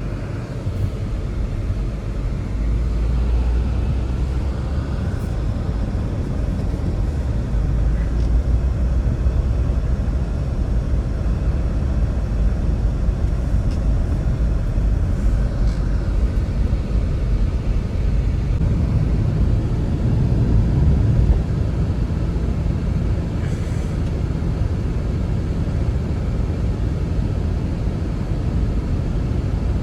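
Blizzard wind blowing as a steady, low rumbling roar, with a few faint ticks.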